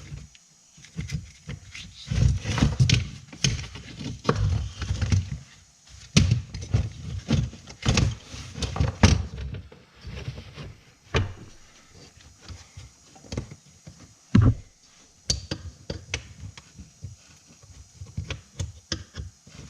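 Irregular metal knocks, thuds and scraping as the two-piece vent window frame is worked loose and pulled out of the truck door, busiest in the first half and thinning to light clicks and taps, with one sharp knock near the three-quarter mark.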